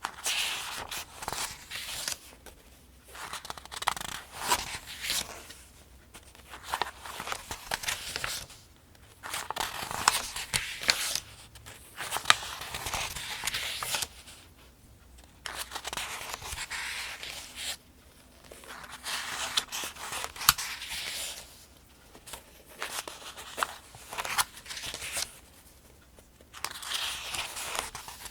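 Pages of a paperback almanac being turned one after another at a steady pace: each turn is a papery rustle and swish with small crisp snaps, lasting a second or two, with short pauses between turns.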